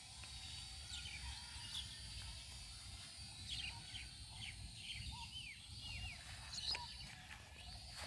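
Birds chirping and calling, short rising and falling notes scattered throughout, over a faint steady high whine and a low rumble of wind.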